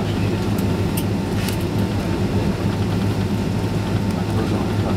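Cabin noise inside a Boeing 767-300 with its engines running: a steady low hum and rush, with a few light clicks early on.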